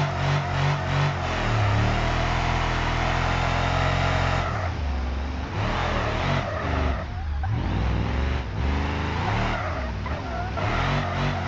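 LS1 V8 engine in a Ford F-150 pickup running, pulsing briefly at first, then holding steady, then revving up and down several times from about halfway through.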